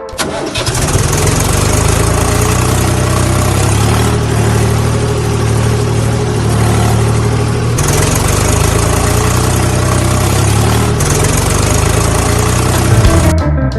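An engine running steadily at idle, loud and even, starting and cutting off abruptly.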